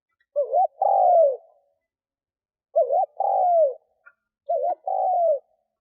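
A decoy spotted dove cooing three times, used to lure wild doves. Each phrase is a quick double note followed by a longer coo that falls in pitch, and the phrases come about every two seconds.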